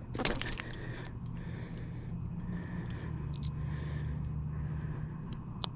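A brief scuffle near the start, then small metallic clicks and scrapes as a hook is worked out of a channel catfish's mouth, over a steady low hum.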